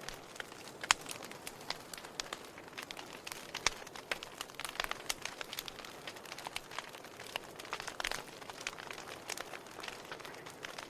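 Wood fire burning: a steady soft hiss with irregular sharp crackles and pops of burning logs, a few louder snaps among them.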